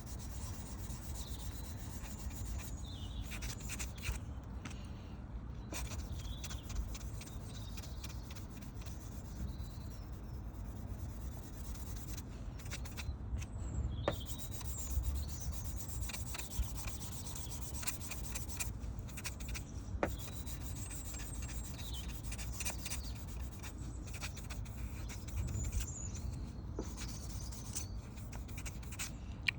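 Abrasive paper being rubbed back and forth over a car's clear coat by hand, flatting the lacquer down to a level finish, with a steady scraping of strokes.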